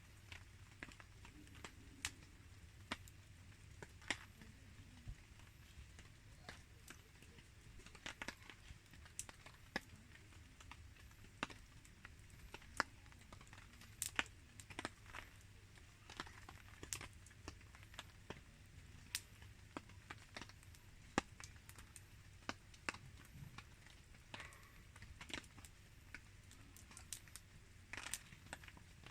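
Wood fire crackling: scattered sharp pops and snaps at irregular intervals, sometimes several in quick succession, over a faint steady hiss.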